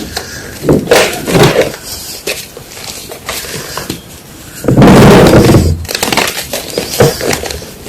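Blocks of gym chalk being crunched and crushed close up: irregular crackling crunches, with one longer, louder crunch about five seconds in.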